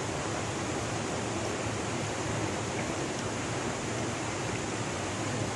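Flowing stream water rushing steadily, an even hiss.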